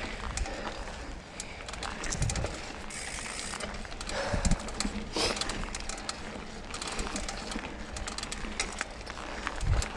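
Mountain bike riding down a dirt singletrack: steady tyre noise with frequent clicks and rattles from the bike, and a few low thumps as it hits bumps.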